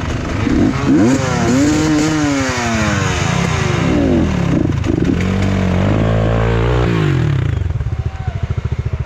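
An enduro motorcycle engine revs up and down repeatedly under throttle, as when working through rough terrain. About seven and a half seconds in it drops to a low, lumpy, pulsing idle.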